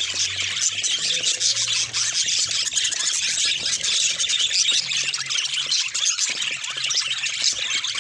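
A flock of budgerigars chattering, a dense, continuous mix of rapid high chirps and squeaks.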